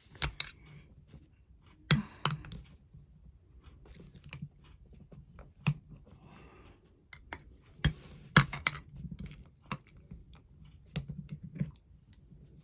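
Irregular clicks, taps and scrapes of digging through the melted wax of a mug candle to find the foil-wrapped jewelry packet inside. The sharpest knocks come about two seconds in and again around eight seconds in.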